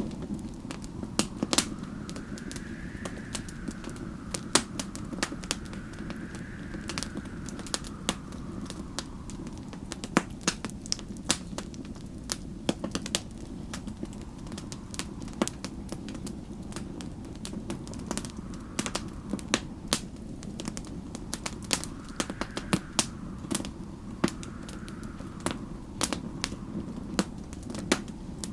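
Wood fire crackling, with frequent sharp pops and snaps over a steady low rumble. Snowstorm wind whistles in slow swells that rise and fall in pitch, a few times.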